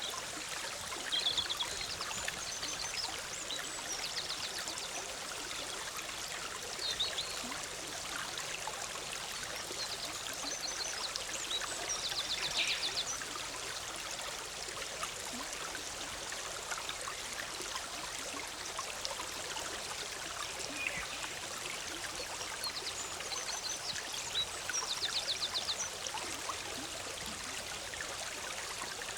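Forest stream running steadily over rocks. A small songbird sings short high phrases that end in fast trills, several times over.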